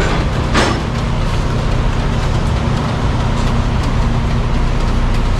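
Semi truck's diesel engine idling steadily, with one short sharp sound about half a second in.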